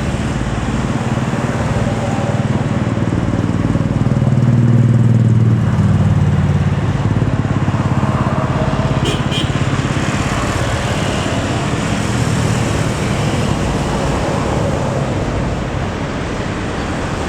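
Low engine rumble that swells to a peak about five seconds in and then slowly eases, with a brief crackle about nine seconds in.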